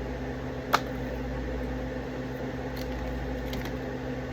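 Steady hum of a running kitchen appliance, holding a few constant low tones, with one sharp click about a second in.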